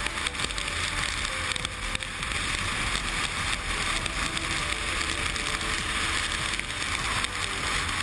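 Steady wind rush and road noise from a motorcycle on the move, with a low rumble underneath.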